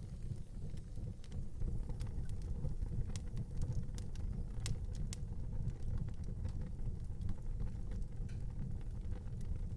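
Wood fire burning in an outdoor fireplace: irregular sharp crackles and pops over a steady low rumble.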